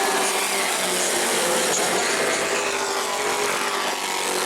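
A pack of racing pickup trucks' engines running at speed on an asphalt oval, several engines sounding together in a steady, loud drone.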